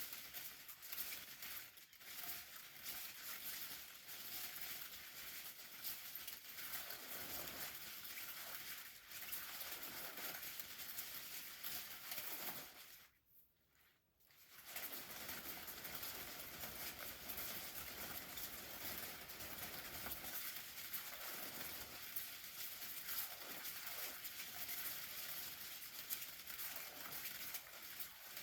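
Continuous crackly, crinkling patter from an umbrella, with a brief break about 13 seconds in.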